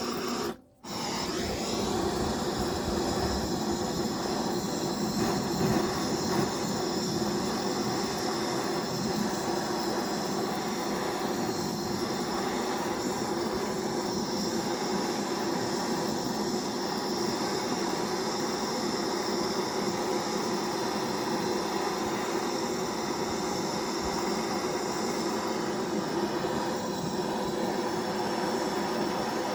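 Propane gas torch burning with a steady hiss, its flame heating a copper pipe joint for soldering. The sound breaks off briefly about a second in, then runs on evenly.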